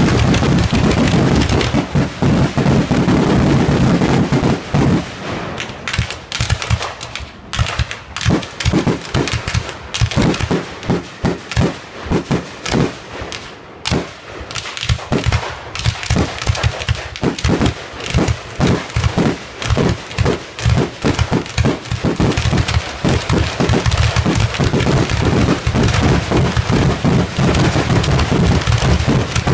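Fireworks display: dense, rapid cracks and bangs of exploding shells, a near-continuous barrage at the start and again from about two-thirds through, with more separate, spaced-out cracks in between.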